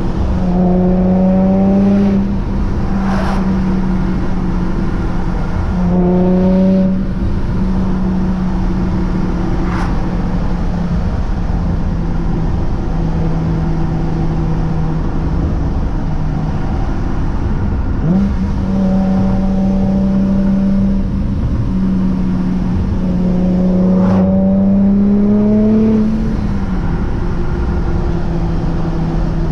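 Vortech-supercharged Infiniti G35's 3.5-litre V6 with headers and a Motordyne exhaust, running at a steady cruise. Its note climbs briefly about four times as the throttle is opened, then settles back.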